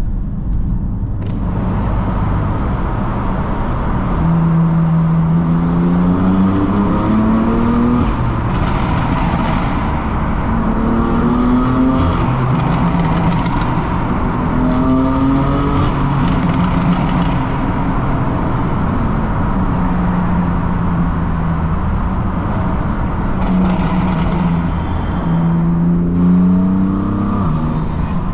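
BMW M3 F80's 3.0-litre twin-turbo inline-six accelerating hard in a tunnel: several times the revs climb steeply and then drop back, with steadier cruising between the pulls and a last climb near the end.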